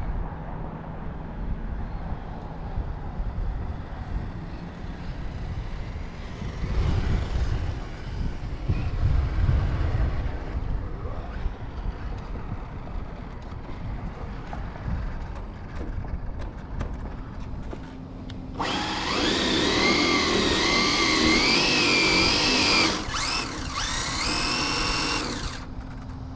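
High electric whine of RC drag cars' brushless motors under power, several wavering tones at once, rising in pitch over its last seconds before cutting off. It comes in loud after a long stretch of low outdoor rumble.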